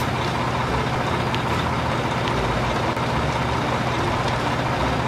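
Truck engine running steadily, a dense unbroken engine noise with a strong low hum.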